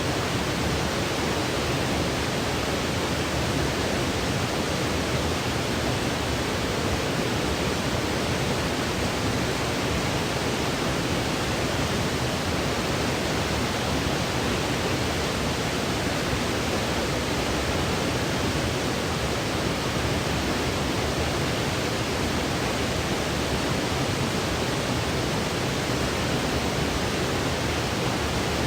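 Steady white noise for sleep: an even, unchanging hiss that never varies in level.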